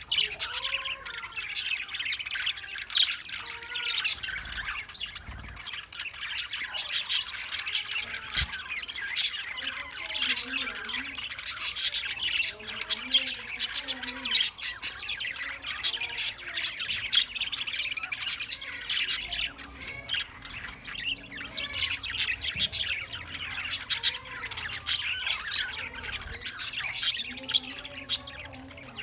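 A flock of cage birds in a bird loft chirping and squawking continuously, many calls overlapping.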